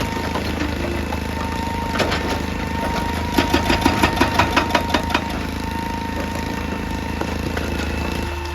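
Excavator's diesel engine running steadily with a thin whine over it. In the middle comes a quick run of about ten sharp knocks, roughly five a second, as the machine works the rock.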